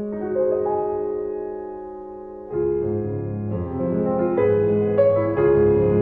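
Background piano music: sustained chords, growing fuller and louder from about two and a half seconds in.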